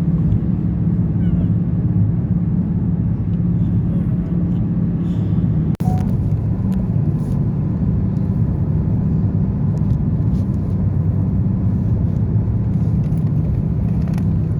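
Steady road and engine noise of a car driving on the highway. It drops out sharply for an instant about six seconds in.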